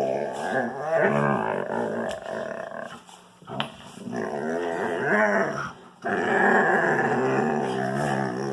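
Wolfdog making long, wavering, pitched growling vocalizations while play-fighting with a puppy. The sounds break off briefly about three seconds in and again just before six seconds.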